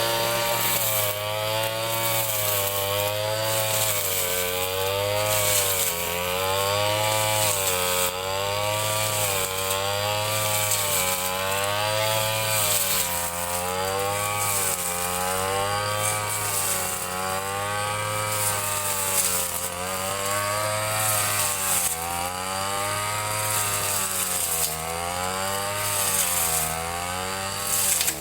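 Ryu 30.5 cc two-stroke brush cutter engine running at high speed while cutting grass. Its pitch dips and recovers about every second and a half as the cutting head swings through the grass.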